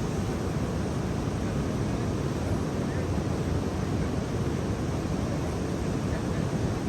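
Steady, even rushing noise, heaviest in the low end, with no distinct events or changes.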